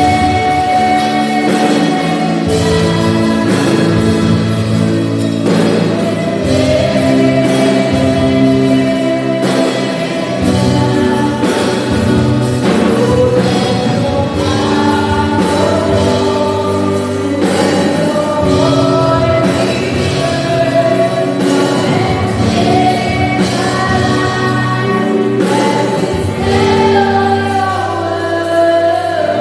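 Live gospel worship music: a worship team singing together over a church band, with drum strikes keeping a steady beat.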